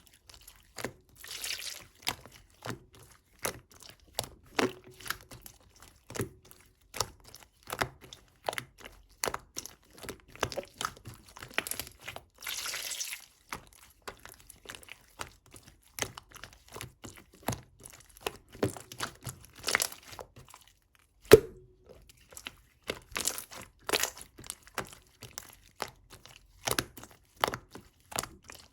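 Close, crisp handling noises: a string of sharp clicks, crinkles and crunches, with a longer rustling stretch about twelve seconds in.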